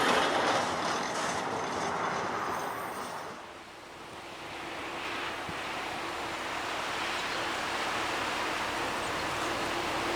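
A freight train of empty hopper wagons running past and fading away. Then a diesel locomotive with a steady engine note slowly grows louder as it pulls away with its train.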